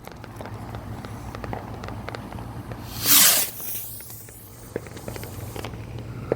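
A lit consumer firework going off: a crackle of small pops with a loud hissing whoosh about three seconds in.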